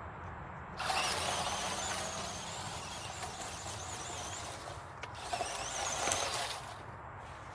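Small electric motor of a 1:14 scale 4WD RC truck whining under throttle in two bursts, the first about four seconds long and the second shorter, its pitch wavering as the speed changes.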